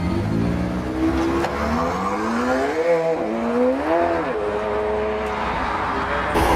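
A car engine revving: the pitch climbs, drops back, climbs again and falls, then settles into a steady run; a louder change comes near the end.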